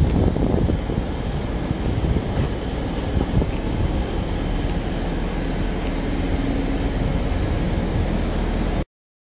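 Keisei 3500 series electric commuter train running, a steady rumble of wheels and running gear. The sound cuts off suddenly near the end.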